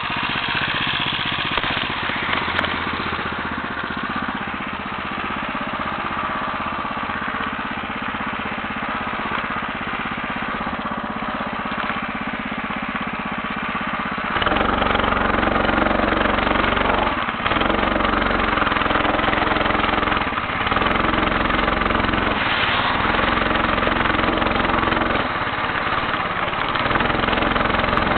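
Homemade motorcycle engine running under way. About halfway through it gets louder and heavier, then briefly dips a few times as the throttle eases and picks up again.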